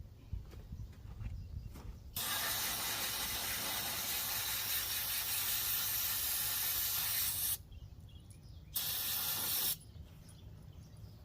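Pressurized spray hissing in two bursts: a long one of about five and a half seconds starting about two seconds in, and a short one of about a second near the end, each starting and stopping abruptly.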